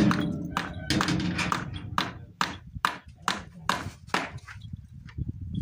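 Hammer driving nails into wooden fence boards, with repeated sharp blows at about two a second.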